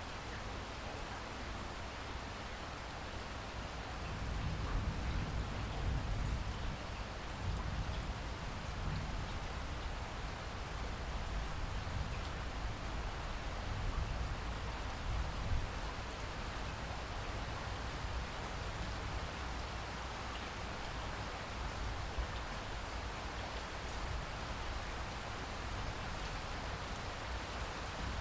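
Steady, continuous rain falling and pattering on surfaces, an even hiss of many drops. A deeper low rumble swells underneath about four seconds in and eases off by the middle.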